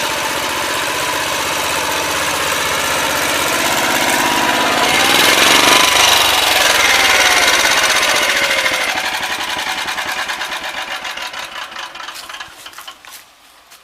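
Motor Sich walk-behind tractor's engine running under ploughing load. It grows louder to a peak about six seconds in, with a pitch that rises and then falls, then fades, its firing beats slowing and spacing out until it dies away near the end.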